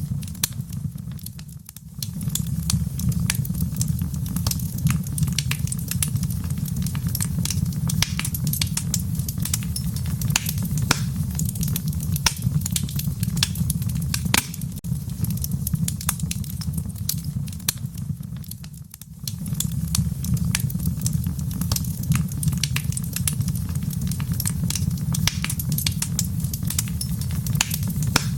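Wood fire burning in a fireplace, crackling with frequent sharp pops over a steady low rumble. The sound dips and comes back twice: about a second and a half in, and again about nineteen seconds in.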